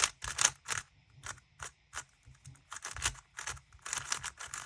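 GAN maglev 3x3 speedcube being turned fast during a timed solve: a quick, irregular run of light plastic clicks and clacks, several a second.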